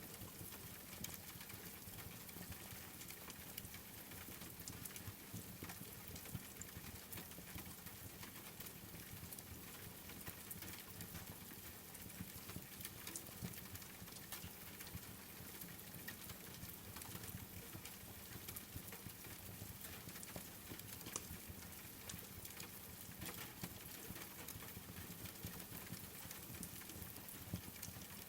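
Rain falling steadily, with a wood fire crackling in a fireplace: an even hiss dotted with many small, sharp pops.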